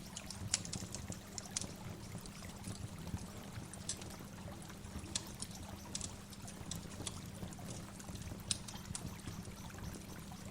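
Waterfall: a steady rush of falling water, with sharp small splashes and drips scattered irregularly through it.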